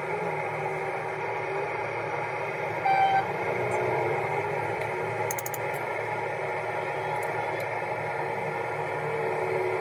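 Steady mechanical background noise, with one short, high beep about three seconds in.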